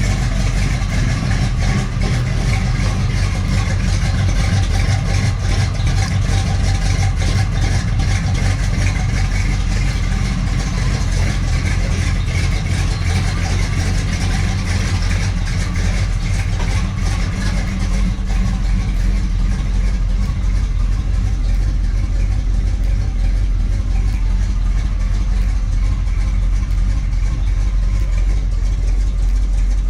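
Chevy Nova's V8 idling steadily on a cold start in freezing weather, still warming up.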